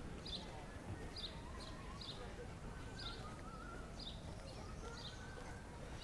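A small bird chirping over and over, short high chirps about once or twice a second, over a steady low rumble of city noise.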